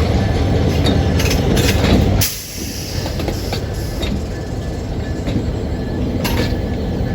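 Railroad cars rolling past with a heavy rumble and scattered sharp clicks of wheels over the rails. About two seconds in, the loud rumble drops off suddenly and a quieter steady rumble carries on.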